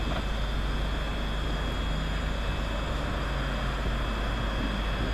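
Train noise at a station platform: a steady low rumble with a faint, constant high-pitched whine.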